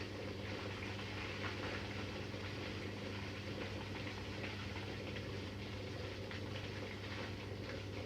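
Siemens Siwamat iQ 716 front-loading washing machine running mid-wash: a steady motor hum under water and laundry sloshing in the turning drum.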